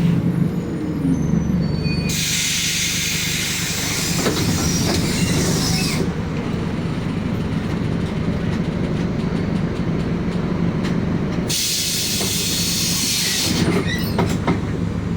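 City bus engine running with a steady low hum. Compressed air hisses loudly from the bus's air system twice: once for about four seconds starting about two seconds in, and again for about two seconds near the end. Each hiss starts and stops abruptly.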